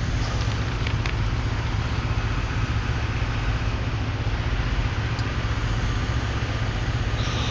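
Semi-truck diesel engines idling steadily, a low, even drone.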